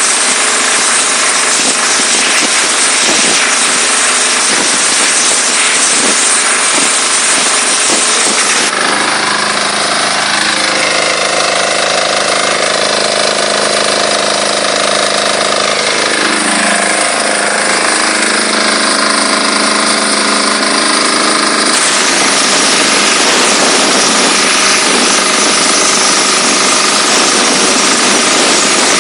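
Diesel-engine-driven high-pressure washer running under load, with a loud steady rushing noise over the engine. About nine seconds in the rushing thins and the engine's hum shows clearly, dipping in pitch partway through. The full rushing returns for the last seven seconds or so.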